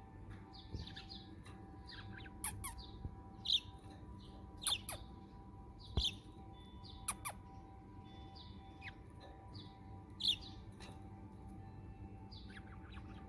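Budgerigar giving short, scattered chirps and sharp squawks, some dropping quickly in pitch, every second or so.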